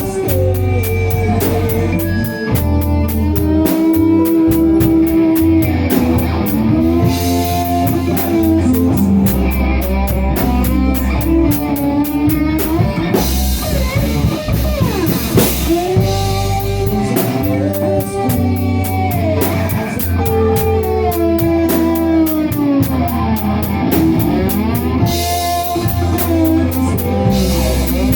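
Rock band playing a slow ballad, with a drum kit and electric guitar; sustained notes slide up and down in pitch.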